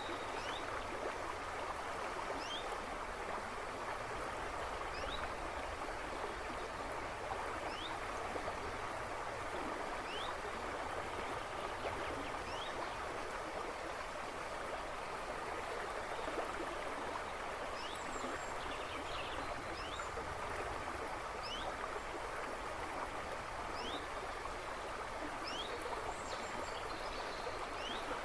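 River water rushing and babbling steadily, with birds chirping in the background forest: short, high, rising notes every couple of seconds.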